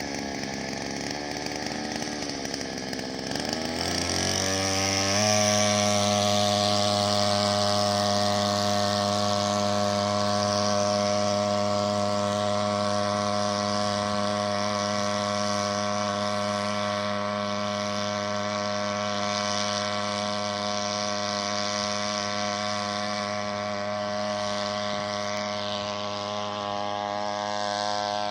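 Small 3 hp outboard motor speeding up about four seconds in, then running steadily at high throttle.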